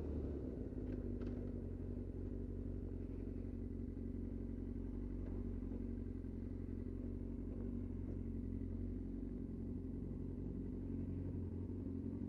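2003 Yamaha R6's inline-four engine running steadily at low revs through an aftermarket Remus exhaust can.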